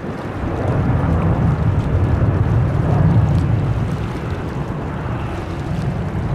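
Steady low rumble of an Airbus A380's four jet engines on approach, mixed with wind buffeting the microphone. It swells a little in the middle.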